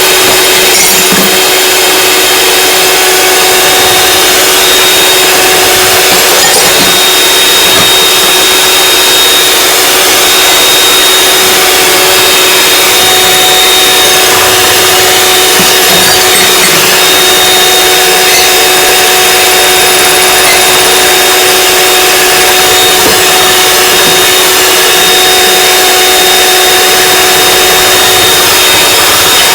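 Electric mixer running at one steady speed with a constant motor whine, beating egg whites and sugar into meringue that is still being whipped toward stiff peaks.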